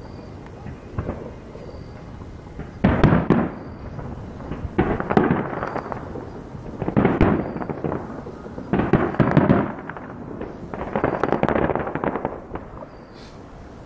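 Distant fireworks shells going off in a run of five booms with crackling trails, about two seconds apart, starting about three seconds in; the last one trails off near the end.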